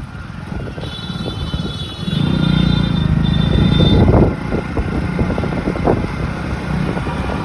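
Busy city road traffic: engines of motorcycles and cars running. A vehicle passes close with a louder engine from about two seconds in to just past four, while a high thin tone sounds over the first half, broken once briefly.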